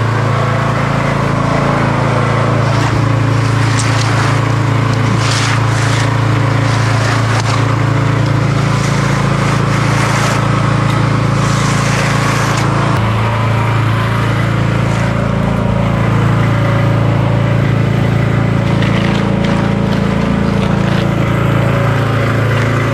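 An engine running steadily at a constant pitch, with short scratchy sounds coming and going over it.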